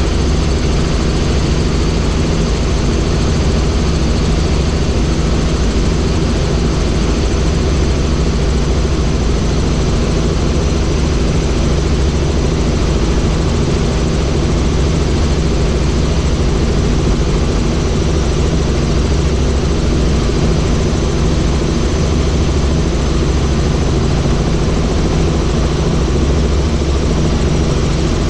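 Helicopter running steadily, a loud, even drone of rotor and engine with steady low tones throughout.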